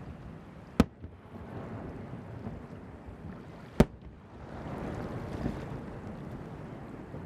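Fireworks shells bursting over the sea: two sharp bangs about three seconds apart, with a steady rumbling wash between them that swells after the second bang.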